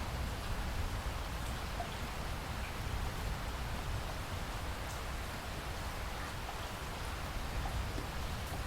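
Steady rainfall in a rainforest, an even wash of rain with scattered individual drops ticking, over a low rumble.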